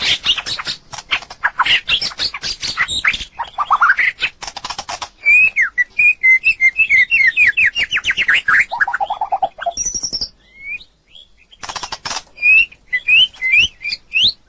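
White-rumped shama singing: a varied song of rapid harsh chattering notes, then a quick run of slurred whistles. It breaks off for about a second roughly ten seconds in, then resumes with rising whistled notes.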